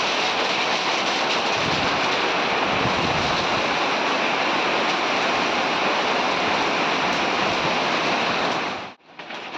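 Heavy rain pouring down steadily as a dense, even hiss that cuts off suddenly near the end.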